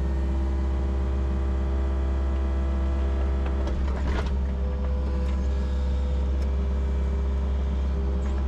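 Yanmar SV40 mini excavator's diesel engine running steadily under working load with a steady whine over its low drone. There is a brief clatter of the bucket or tracks about four seconds in.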